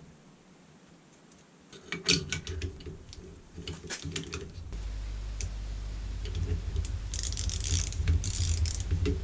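Small metal parts of an air-suspension compressor being handled, making a run of clicks and rattles that starts about two seconds in. A steady low hum sets in near the halfway point.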